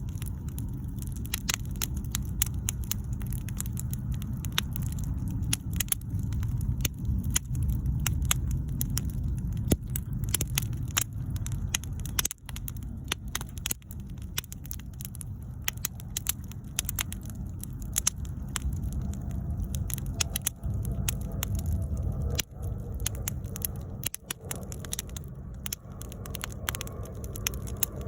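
Wood bonfire crackling, with many irregular sharp pops over a steady low rumble.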